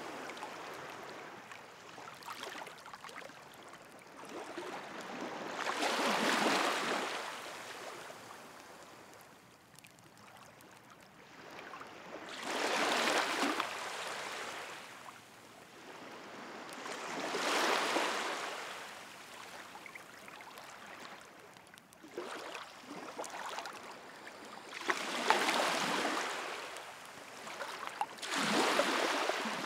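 Sea waves washing onto the shore, rising and falling in slow surges about five times, with a few faint crackles from a wood bonfire between them.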